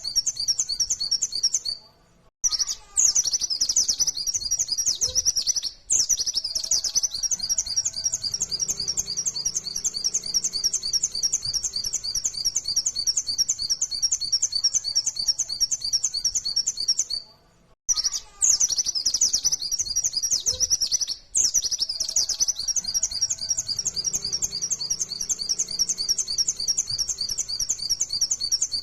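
White-eye (pleci, Zosterops) singing a fast, unbroken run of rapid repeated high notes, the rapid-fire 'nembak' song. It breaks off briefly about 2 and 6 seconds in and again near 18 and 21 seconds, and the same stretch of song comes round again about 16 seconds later, as in a looped recording.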